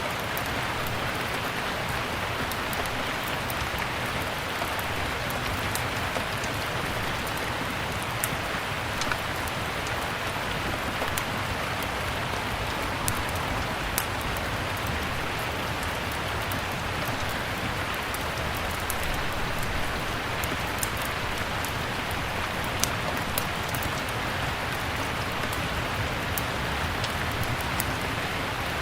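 Steady rain falling, with scattered sharp crackles and pops of a wood fire burning in a fireplace; a few pops stand out louder.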